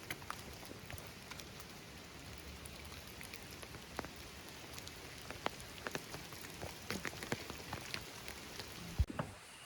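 Rain falling in forest: a steady hiss with scattered drops tapping, more of them in the second half, and one low thump about nine seconds in.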